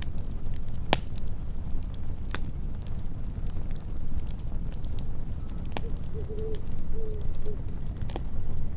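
Campfire burning with a low rumble and scattered sharp crackles and pops. Crickets chirp high and short at an even pace, about once a second. A low wavering call sounds for about two seconds in the middle.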